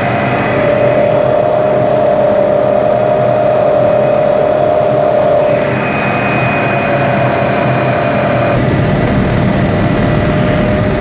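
Helicopter engine and rotor noise, loud and steady, with its tones shifting about halfway through and again near the end.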